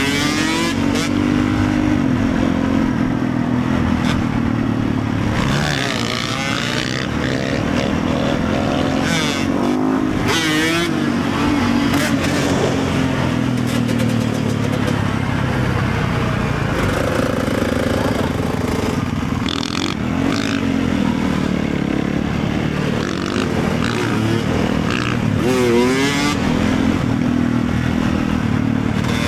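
Motorcycle engine running steadily while riding, its pitch rising and falling with the throttle.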